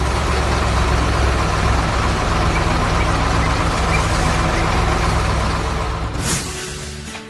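Heavy construction-vehicle engine running with a steady low rumble. About six seconds in there is a short hiss like an air brake, and then the sound fades out.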